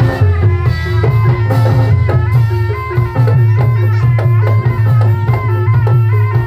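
Live accompaniment music for Javanese dawangan/barongan: drums beating over steady ringing pitched tones and a sustained low tone.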